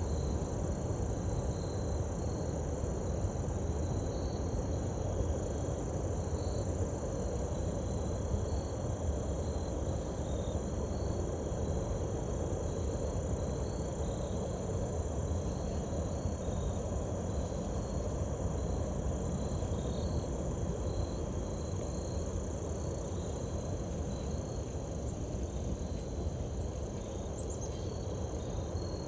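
Crickets chirping steadily in rapid, evenly repeating pulses, over a continuous low rumble.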